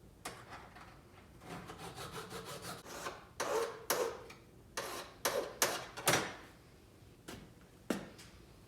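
Hand scraping and rubbing strokes on a lathe part being cleaned up: a quick run of light strokes, then about eight louder, separate rasping strokes.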